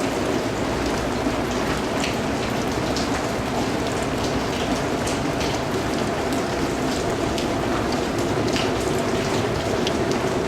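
Steady rain falling, a dense even patter with many individual drops striking a surface.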